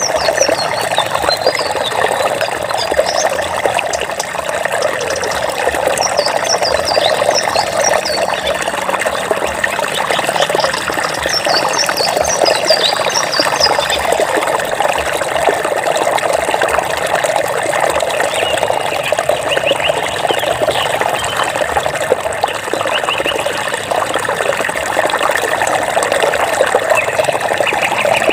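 Water flowing and trickling steadily over rocks, like a small stream. Clusters of short high-pitched chirps come through over the water several times.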